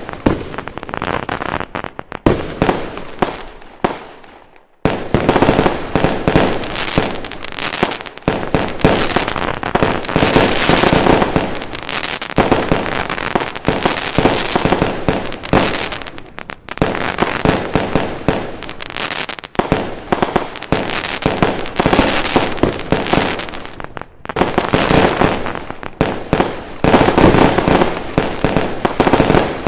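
Fireworks going off in rapid, overlapping volleys of bangs and crackles, with a brief lull about four seconds in before the barrage resumes.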